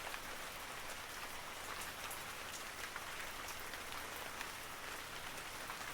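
Steady rain falling, an even hiss dotted with the sharp ticks of individual drops hitting a surface, without thunder.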